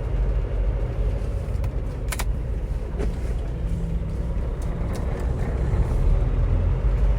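Semi truck's diesel engine running with a steady low drone while the rig moves at low speed, its note shifting a little in the middle. There is a brief sharp sound about two seconds in.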